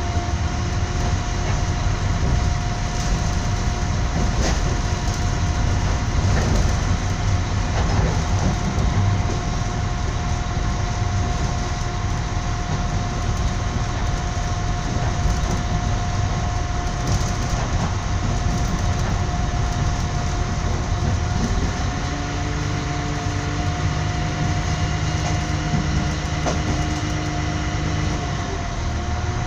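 Passenger train running along the line, heard from inside the carriage: a steady rumble of wheels on rails with a constant hum over it. A second, lower hum comes in about two-thirds of the way through.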